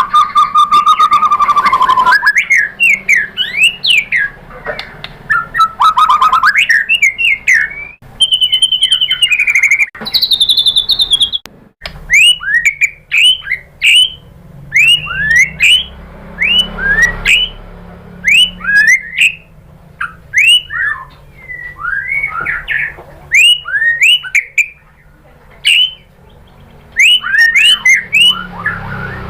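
White-rumped shama singing: a varied song of warbles and clear whistled notes, then a long run of short, quickly repeated sweeping chirps in rapid phrases.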